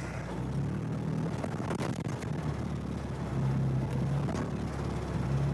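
UAZ off-roader's engine running under load, its revs swelling a couple of times as the wheels with wooden planks strapped to them try to claw through deep snow, with a few sharp knocks along the way.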